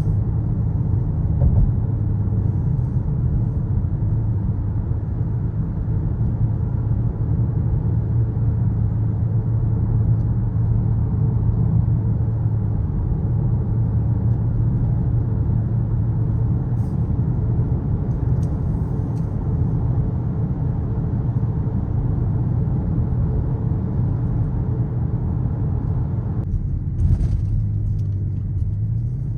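Skoda Kodiaq RS 2.0 TSI's turbocharged four-cylinder petrol engine and exhaust droning steadily at a light, even throttle under a road rumble. Near the end the engine note rises.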